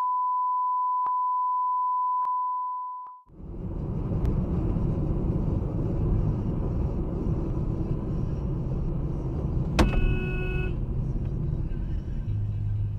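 A steady, high electronic beep tone that stops about three seconds in, followed by car road and engine noise heard from a dashcam inside the vehicle. A brief horn blast sounds about ten seconds in.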